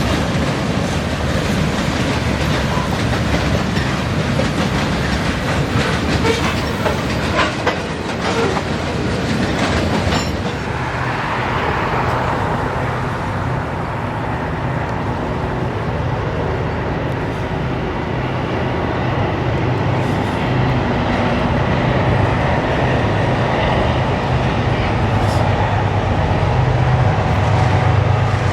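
A train rolling past, its wheels clicking over rail joints through roughly the first ten seconds, then a smoother low rumble that grows louder near the end.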